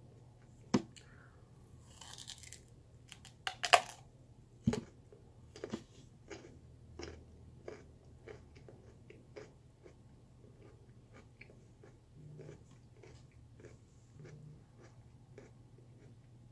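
Crunchy chewing of raw sweet potato, with a few sharp, louder crunches in the first five seconds, the loudest near four seconds in, then steady smaller crunches about one every two-thirds of a second.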